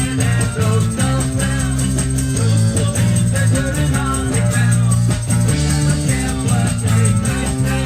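Live ska-reggae band playing, with a heavy bassline, guitar and drums.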